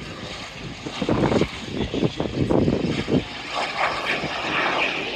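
Airplane engine passing by, its sound swelling and shifting unevenly.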